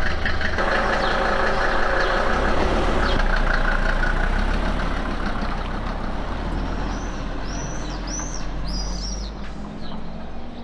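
Car engine running just after being started, then the car pulls away and its sound slowly fades. Several short bird chirps come near the end.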